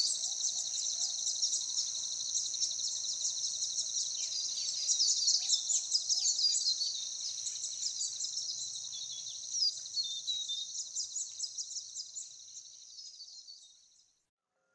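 Forest bird chorus: many songbirds chirping and twittering densely over a steady high trill. It fades out over the last few seconds.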